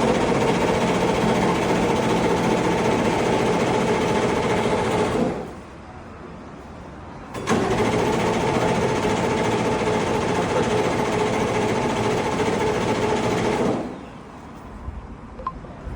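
Subaru BRZ GT300 race car's turbocharged flat-four engine and exhaust running loud at steady held revs for about five seconds, dropping back to a much quieter idle, then jumping back up suddenly and holding steady again for about six seconds before falling back.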